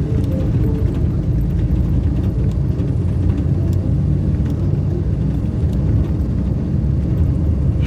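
Steady low rumble of a car travelling on the road.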